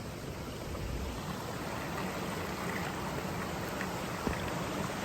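A creek's water rushing in a steady, even wash, with a single small knock about four seconds in.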